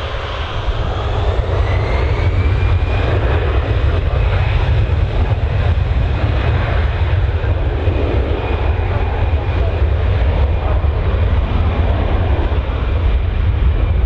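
Airliner engines running loud: a deep rumble with a thin whine that rises over the first couple of seconds and then holds steady.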